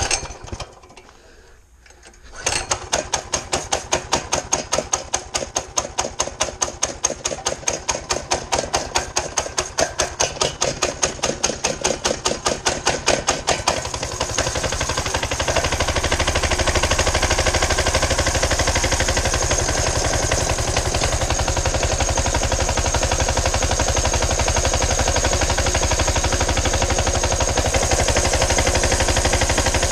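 Mini bike's small engine catching about two seconds in and running cold on choke, uneven at first with a rhythmic surging pulse, then settling into a steady, even run about halfway through as it warms up.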